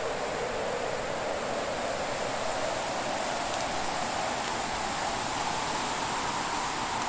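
Fire burning with a steady rushing hiss and a few faint crackling ticks.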